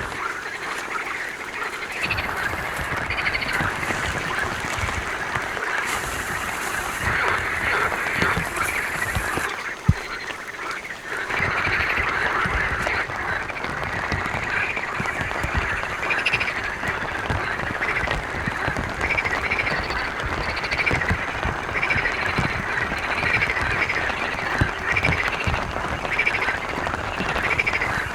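Frogs croaking in a chorus over steady rain, the calls coming about once a second in the latter half. One sharp knock sounds about ten seconds in.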